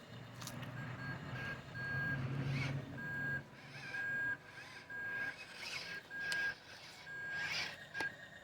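A heavy vehicle's reversing alarm beeping over and over, with a diesel engine running underneath and a sharp knock near the end.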